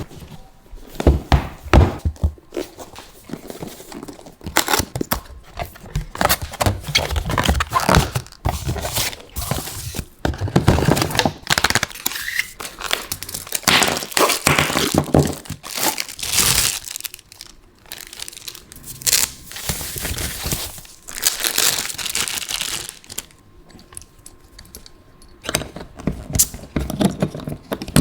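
Packaging being handled and torn open: irregular crinkling and tearing with occasional thunks, quieter for a stretch near the end.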